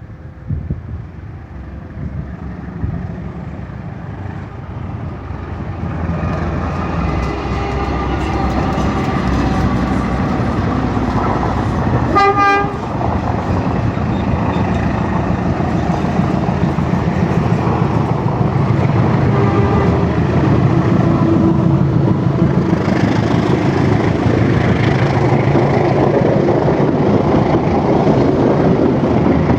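KAI CC206 diesel-electric locomotive hauling a passenger train, its engine and rolling noise growing louder over the first several seconds. A short horn blast sounds about twelve seconds in, then the train runs on loud and steady.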